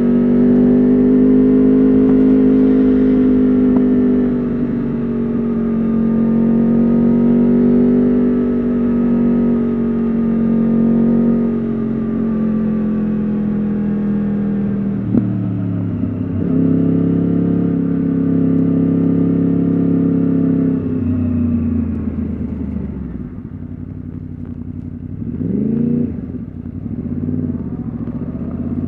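Yamaha R1 RN22's crossplane inline-four engine through an Akrapovič exhaust, heard from the rider's seat while riding: it holds a steady high-revving note, then changes pitch in steps through shifts from about halfway. Near the end it goes quieter off the throttle and gives a quick rev that rises and falls before pulling again.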